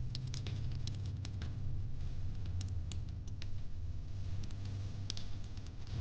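Fire pit crackling: irregular sharp pops and snaps, several a second, over a steady low rumble.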